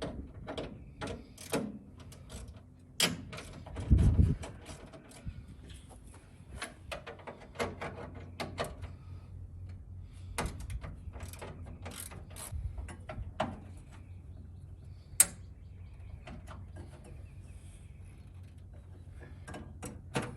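Hand tools clicking and clanking on metal while the radiator mounting bolts and transmission cooler line fittings are being undone, with a heavier thump about four seconds in and a sharp clink about fifteen seconds in.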